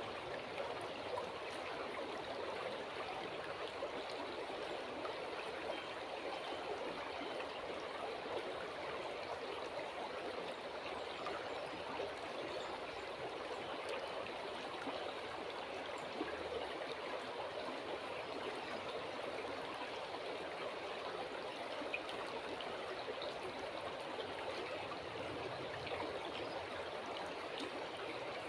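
A river flowing steadily over stones, a continuous trickling and babbling rush of water.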